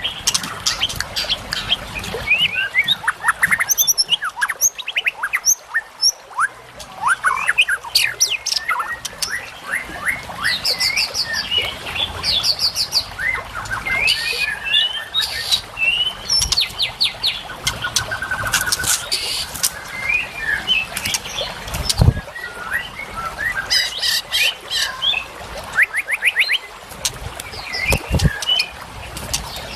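Caged songbirds singing in a dense, unbroken mix of sharp chirps, quick trills and fast repeated notes, a masteran recording of the sort used to train white-rumped shamas. Two short dull thumps come near the end.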